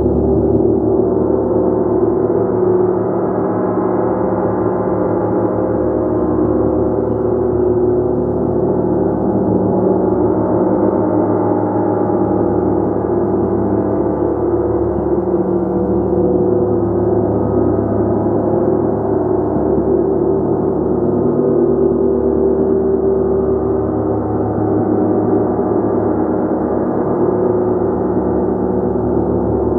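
Gong played continuously, a dense sustained wash of many overlapping tones held at a steady level, with no single strike standing out.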